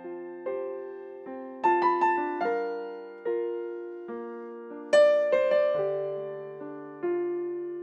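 Solo piano playing the instrumental break of a slow song: chords struck every second or so, each left to ring and fade before the next.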